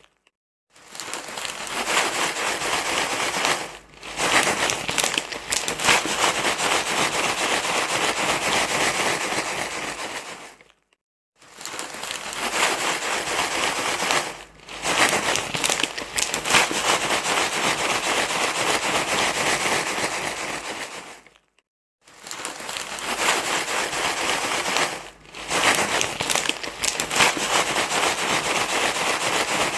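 Dense crinkling, rustling noise that goes on in long stretches with short dips. It breaks off completely for a moment three times, about every ten to eleven seconds.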